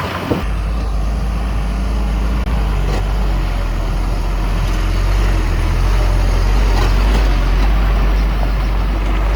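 Diesel engine of heavy earthmoving machinery running steadily: a low rumble that sets in about half a second in.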